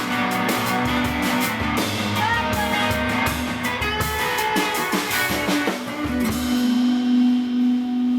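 Live band music: guitar and drum kit playing together with a steady beat. About six and a half seconds in the drums stop and a single held low note rings on, as the song ends.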